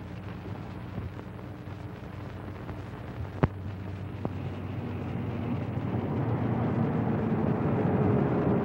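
A car engine drawing near, its rumble growing steadily louder, with a sharp click about three and a half seconds in.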